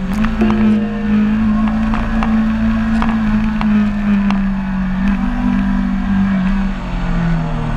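Sportbike engine running steadily under way, its note holding and then dropping slightly near the end.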